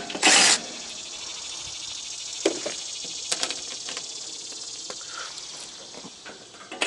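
A steady high-pitched hiss with a few light clicks and taps, following a brief louder rush of noise at the start.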